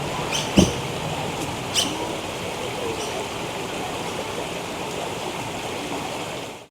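Steady rush of running water. A sharp knock comes about half a second in, and a lighter one near two seconds.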